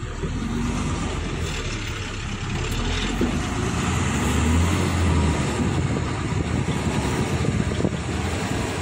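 Lorry engine running with a low rumble that grows louder about halfway through, over a steady rushing noise.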